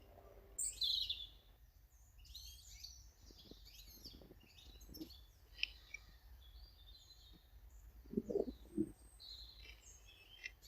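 Small garden birds chirping and singing, a quick run of high calls and trills, loudest about a second in. A few low knocks come near the end.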